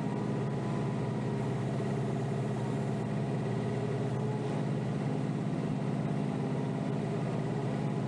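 Kioti DK5320SE compact tractor's diesel engine running steadily, heard from inside the cab.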